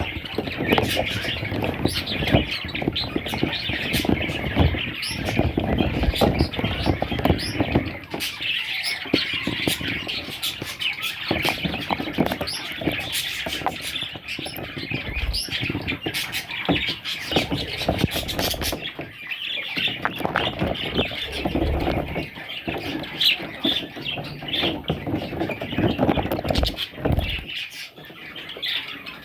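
Budgerigars chirping and chattering continuously, many calls overlapping, with irregular rustling and knocks underneath.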